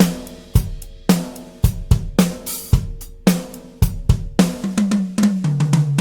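Sampled acoustic drum kit from the Toontrack EZDrummer 3 plugin playing a groove of kick, snare and cymbals, with a strong hit about every half second. Near the end it plays a fill down the toms, falling in pitch.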